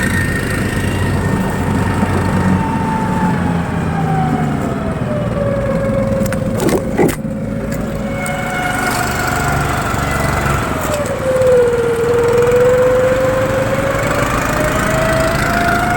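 Tofalar motorized towing sled's engine running under way through the snow, its whine falling and then rising in pitch as the rider eases off and speeds up again. A few sharp knocks about six to seven seconds in.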